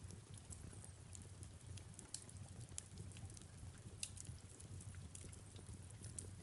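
Fireplace crackling, with irregular sharp pops and snaps over a low steady rumble, and soft rain in the background.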